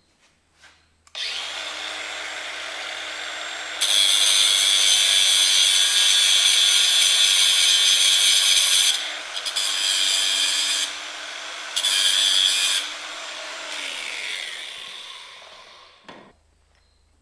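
Handheld power grinder running on the Peterbilt drive shaft's dinged splines. It starts about a second in and hums steadily, with loud stretches of harsh metal grinding: one long one, then two short ones. Near the end it winds down and stops.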